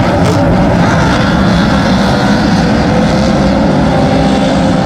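Superstock speedway cars' V8 engines running loudly and steadily, several at once.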